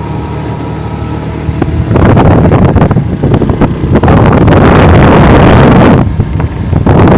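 Wind buffeting the microphone on a moving vehicle over the low hum of its engine; the buffeting rises sharply about two seconds in, eases briefly near the end, then returns.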